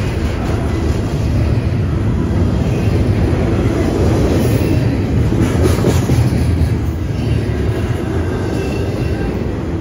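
Double-stack intermodal container well cars of a freight train rolling past close by: a steady rumble of steel wheels on rail, swelling slightly about halfway through.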